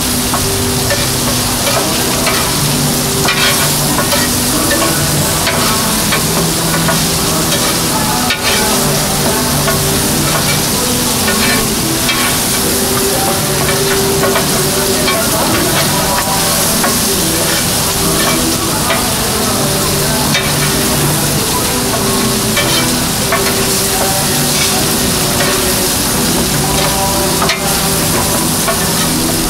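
Beef makchang (entrails) frying on an oiled flat iron griddle: a steady sizzle while it is stirred and turned with a wooden spoon and metal spatula, with scattered sharp clicks and scrapes of the utensils on the plate.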